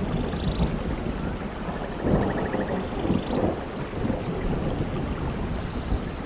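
Steady rainfall with thunder rumbling low underneath, the rumble swelling about two seconds in.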